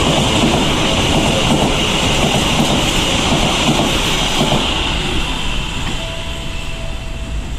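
Passenger train coaches running past close by: a steady rumble and rattle of wheels on the rails with a high hiss over it. It eases off near the end as the last coach goes by.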